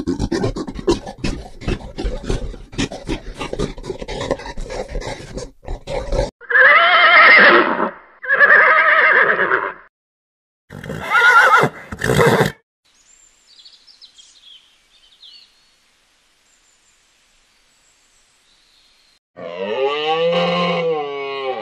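A series of animal sounds. First comes about six seconds of rapid clattering, then three loud pitched calls. Faint chirping follows, and another long pitched call with a rising-and-falling pitch starts near the end.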